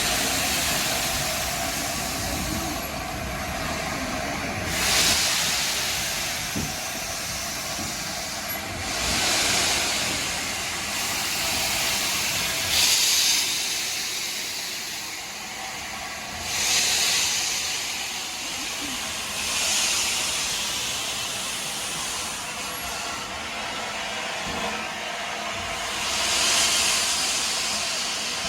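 Steam locomotive hissing steam, with loud surges of hiss every few seconds over a low rumble.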